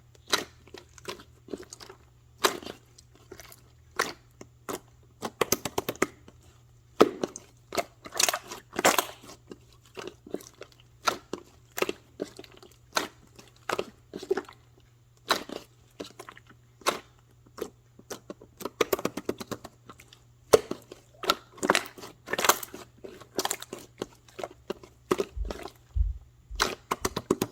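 Blue two-layer slime being squeezed and pressed by hand, giving irregular sticky crackles and clicking pops, several a second with short pauses between.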